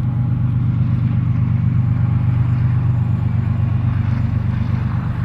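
Truck engine running steadily, a low even drone with no change in speed.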